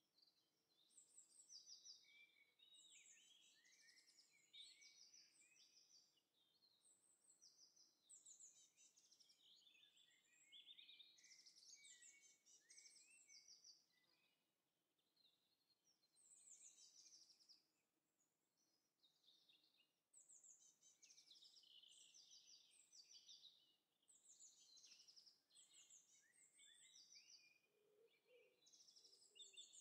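Faint birdsong: several small birds chirping and trilling in bursts, with short pauses, and a few lower notes near the end.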